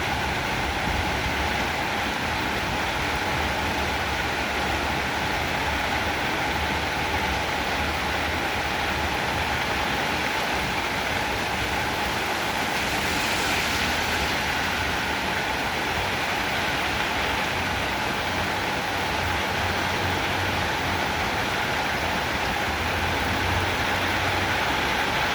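Heavy rain falling steadily, a dense even hiss that swells briefly about halfway through.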